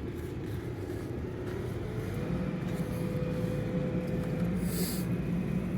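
Steady low mechanical hum of background machinery, with a faint tone that steps up in pitch about two seconds in and holds, and a brief hiss near the end.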